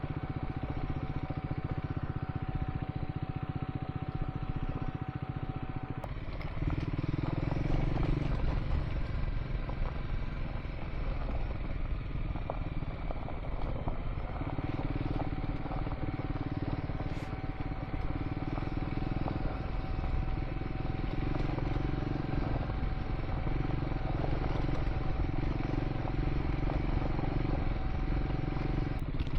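Triumph Scrambler 400 X single-cylinder motorcycle engine running while riding a gravel track. The engine note changes a couple of times, picking up about a quarter of the way through and again around the middle.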